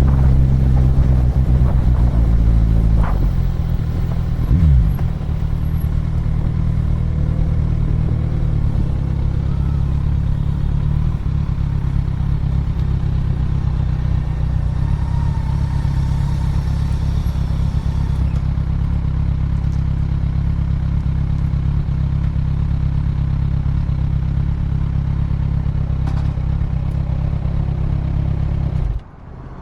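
Motorcycle on the move, its engine and heavy low wind rumble on the microphone running steadily, with a brief falling tone about four seconds in. The sound drops away suddenly near the end.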